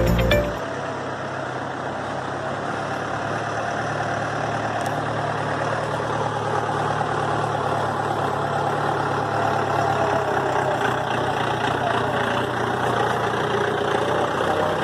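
Mahindra jeep's engine running steadily with a low, even hum that holds one pitch throughout. Background music cuts off about half a second in.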